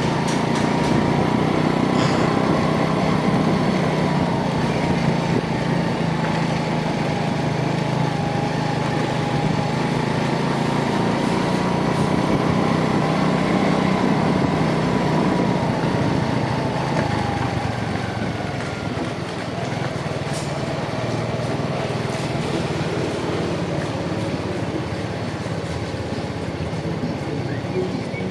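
Rusi DL125 motorcycle riding along the road: steady engine and road noise, with a whine that slowly rises and falls in pitch, easing off a little about two-thirds through.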